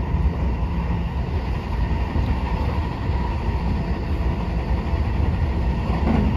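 Running noise of a JR electric commuter train heard from inside the carriage: a steady rumble of wheels on rail and traction motors as the train travels along.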